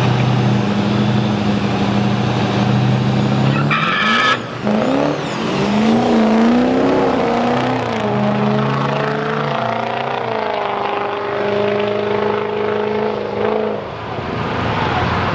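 Drag-race vehicle engines holding steady before the launch. About four seconds in they open up, and the engine pitch climbs, drops back and climbs again several times as the vehicles shift gears down the strip, fading out near the end.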